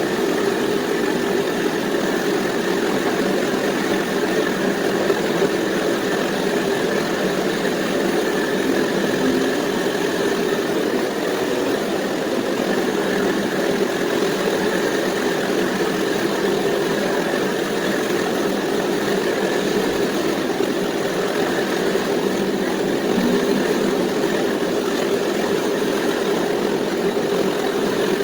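Engine idling steadily through a homemade Bluemoon-style exhaust.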